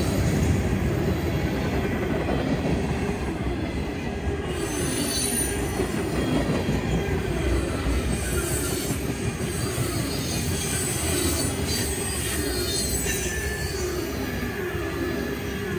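Freight train tank cars rolling past close by, a steady rumble of steel wheels on rail with a repeating rhythm as each truck passes. From about four seconds in, a faint high wheel squeal joins it.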